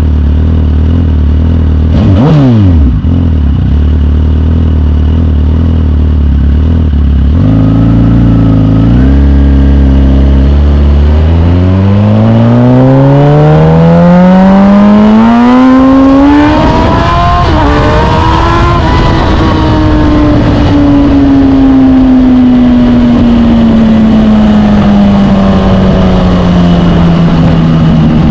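Suzuki GSX-R1000 K8's inline-four engine idling, then revving as the bike pulls away and accelerates up through the gears, its pitch climbing with a drop at each shift. It then falls slowly as the throttle is rolled off. About two seconds in, a passing vehicle sweeps by with a quickly falling pitch.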